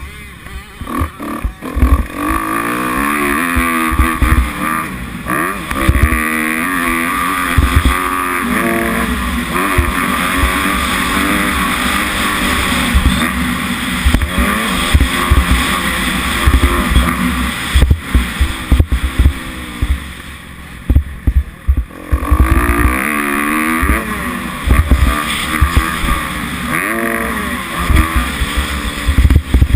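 Kawasaki 250F four-stroke single-cylinder motocross bike engine revving up and down as it is ridden around the track, its pitch climbing and falling again and again. The engine sound drops away briefly about two-thirds of the way through, then picks up again. Irregular low thumps run underneath.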